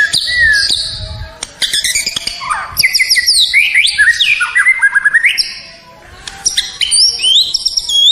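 White-rumped shama (murai batu) singing a fast, varied run of clear whistles, sweeping up-and-down glides and quick trills, with a brief pause about six seconds in.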